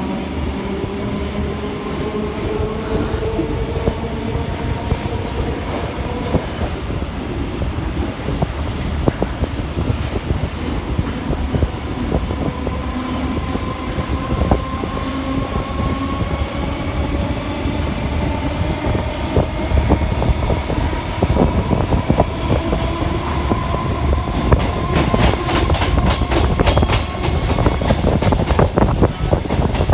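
Electric suburban local train (EMU) running, its motor whine rising slowly in pitch as it gathers speed, over a steady rumble of wheels on rails. Near the end the wheels clatter quickly over rail joints.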